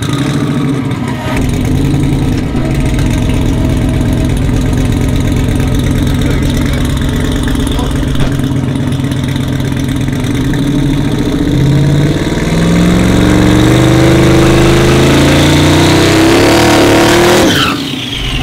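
Twin-turbo LS V8 pickup truck engine running at low revs, then revving up in one steady rising climb for about five seconds at full loudness before letting off sharply.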